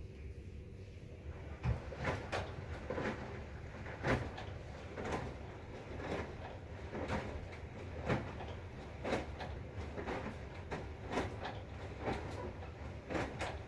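Maytag washing machine running: a steady low hum with sharp clunks about once a second, a few coming in quick pairs.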